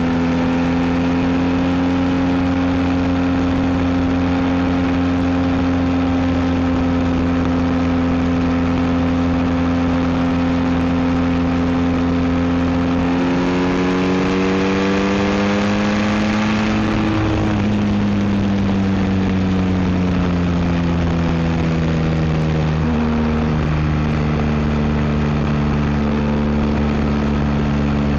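BMW R1250 GS boxer-twin engine through an Akrapovic exhaust, running steadily under way, then rising in pitch as it accelerates for a few seconds around the middle. It falls back again and shifts suddenly in pitch near the end before running steadily.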